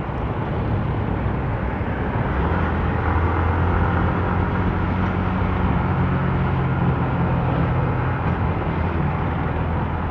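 Motorcycle engine running steadily while riding, a low hum that grows stronger about two seconds in, over a steady rush of road and wind noise.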